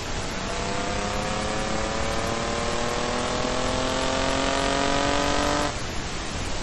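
Engine of an engine-swapped BMW E28 under hard acceleration on track, its note climbing steadily for about five and a half seconds, then breaking off suddenly near the end, as at an upshift. A strong rush of wind and road noise runs under it.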